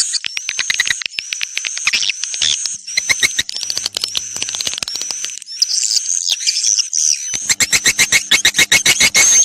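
Swiftlet lure call recording: dense, high chirping twitters over rapid rattling clicks, the calls of edible-nest swiftlets played to draw the birds into a nesting house. A faint low drone sits under the calls for the last two seconds or so.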